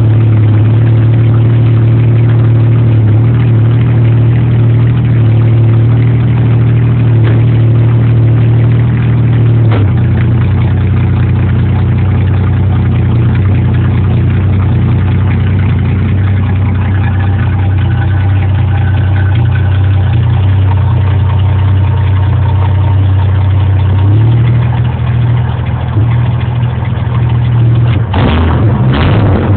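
Ford straight-six engine idling steadily through its exhaust, its note settling a little lower about a third of the way in, with a quick blip of the throttle near the end.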